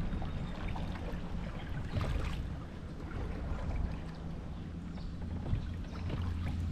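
Water splashing and sloshing around a canoe on the river, with wind rumbling on the microphone. The splashes are strongest about two seconds in.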